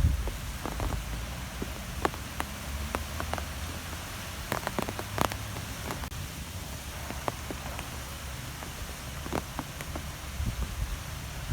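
Wind blowing with a steady low rumble, with scattered sharp ticks and taps throughout.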